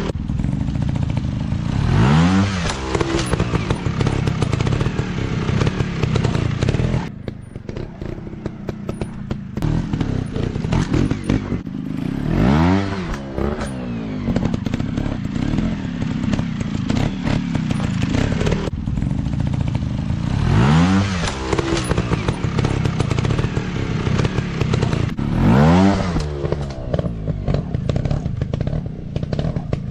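Dirt bike engines running with a rapid crackling exhaust note, revved hard four times, the pitch climbing quickly and dropping back each time, with a lull between.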